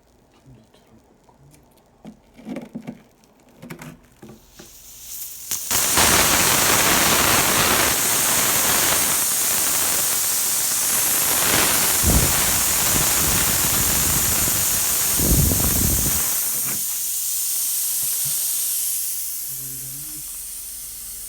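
Gas under pressure hissing out loud and steady, starting suddenly about six seconds in after some small handling noises, with two brief low surges in the middle, and easing off near the end.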